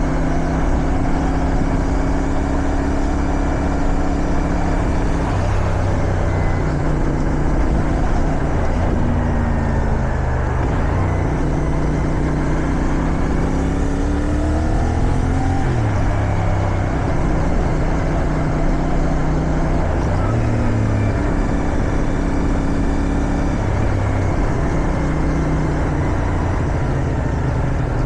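Motorcycle engine running under way, its note falling and climbing again several times with throttle and gear changes, over a steady rush of wind.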